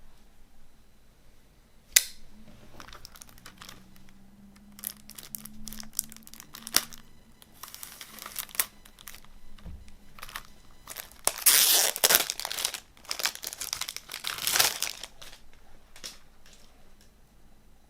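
CD packaging crinkling and tearing as it is opened by hand, with a sharp click about two seconds in. The loudest stretch of crinkling comes a little past the middle.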